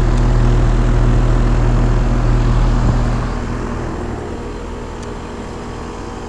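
Trane XE1000 Weathertron heat pump outdoor unit running in heat mode: steady compressor hum with the condenser fan running. A heavier low rumble on top of it eases off about three and a half seconds in.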